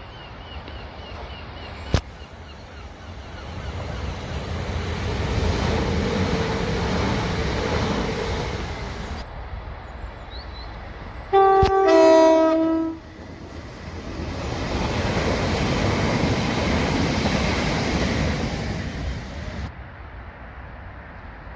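Passenger trains rushing past on the line below, with a steady whine during the first pass. About halfway through, a train horn sounds loud and briefly in two notes, the higher first, then the lower, for about a second and a half, and then another train passes.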